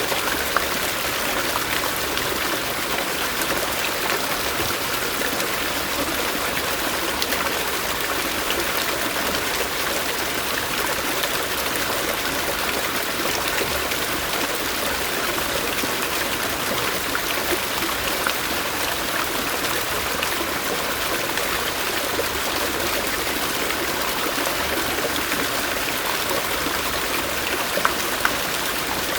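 A forest stream running steadily, the even rush of flowing water unchanged throughout.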